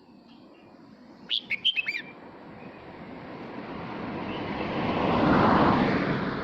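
A red-whiskered bulbul sings one quick phrase of warbled whistled notes about a second in. Then a broad rushing noise swells over a few seconds and fades.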